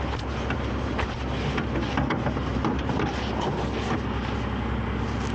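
A truck engine idling steadily, with many irregular metallic clinks and rattles of gear being rummaged through in a truck toolbox.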